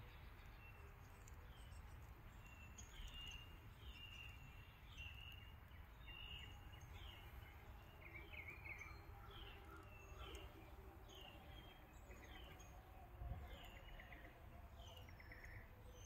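Faint outdoor ambience: a bird repeats a short, falling chirp a little more than once a second over a low, steady rumble.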